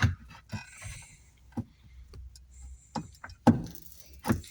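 Irregular clicks and knocks of plastic parts and a screwdriver being handled as a washing machine's drain pump part is screwed back into place.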